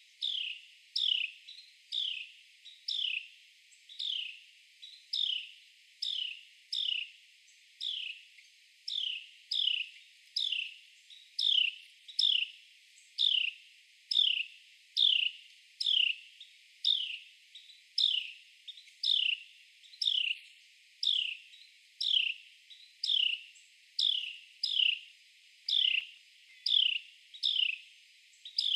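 Carolina wren calling: a long, steady series of single sharp notes, each sweeping quickly down in pitch, about three every two seconds.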